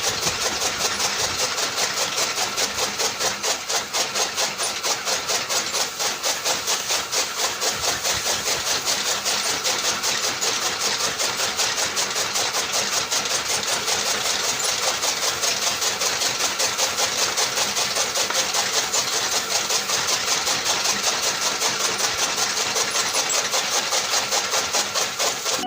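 A small motor running steadily with a fast, even chugging pulse that does not change in speed.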